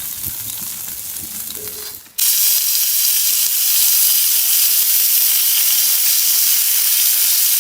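A steady hiss, softer with a few low knocks at first, cutting abruptly about two seconds in to a louder, even hiss.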